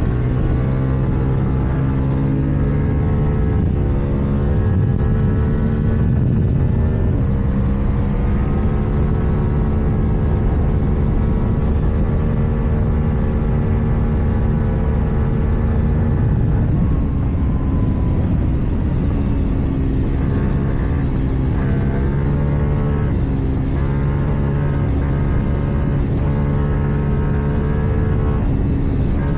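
KTM Duke 790's parallel-twin engine through an Akrapovič exhaust, running under way. The pitch holds steady for several seconds, drops a little past halfway as the throttle comes off, then climbs and changes again with throttle and gear changes.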